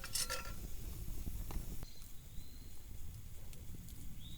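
Food being handled on a metal grill grate over a campfire: a short metal clink right at the start, then a steady low rumble with a few faint light knocks and clicks. Faint high chirps come through about two seconds in and again near the end.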